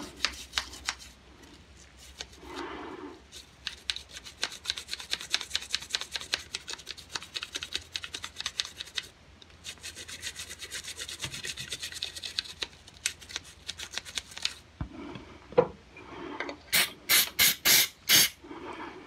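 Toothbrush scrubbing the inside of a stainless steel derringer frame: rapid, uneven back-and-forth bristle strokes, with about five louder, longer strokes near the end.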